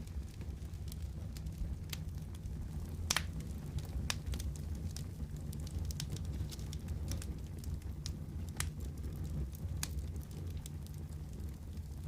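Wood fire crackling in a fireplace: scattered sharp pops and snaps, irregularly spaced, over a steady low rumble. The loudest pop comes about three seconds in.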